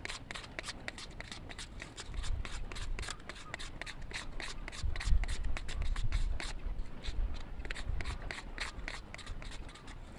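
Knife shaving thin curls off a stick of firewood to make a feather stick: a quick, irregular run of short scraping strokes, several a second.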